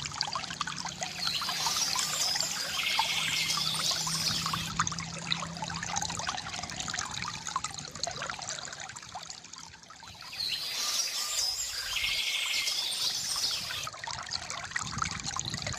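River water trickling and gurgling steadily, with birds chirping in two bursts, about a second in and again about ten seconds in.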